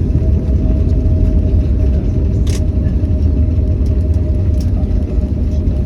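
Airbus A321neo landing: a loud, steady low rumble with a faint steady tone held through it, and a single click about two and a half seconds in.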